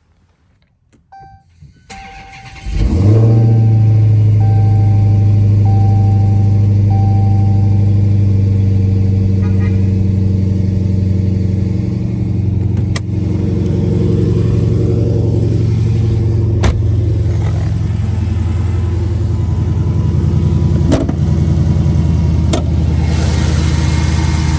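2018 Dodge Challenger SRT Hellcat's supercharged 6.2-litre V8 starting with a loud flare about three seconds in, then settling into a steady loud idle. A chime beeps several times over the first few seconds, and a few sharp clicks sound later on.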